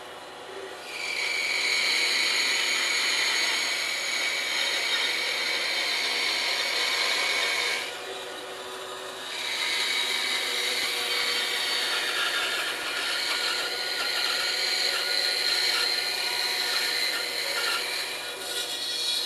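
Bandsaw cutting through a thick 4x4 wooden block, the motor and blade running steadily. The cutting noise comes in two long stretches, with a lull of about a second and a half just before the middle when the blade comes out of the wood.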